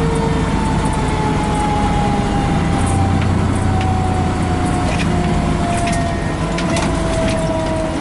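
Cab noise of a Pierce fire engine under way: a steady diesel engine and road rumble with light rattles. Over it a mechanical siren's tone slowly winds down in pitch.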